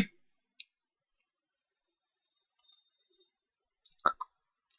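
Near silence: room tone, with a few faint short clicks, the clearest pair about four seconds in.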